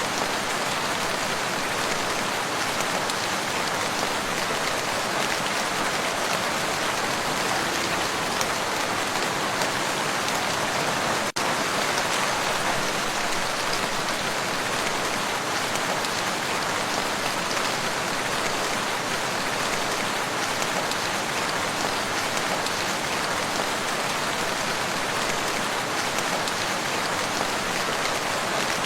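Steady, heavy rain falling on a lake, an even hiss of dense raindrops. About eleven seconds in it briefly drops out for an instant.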